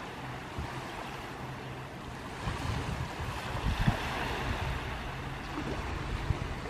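Sea waves washing onto a beach, with one wave surging in about two and a half seconds in. Wind buffets the microphone in low thumps throughout.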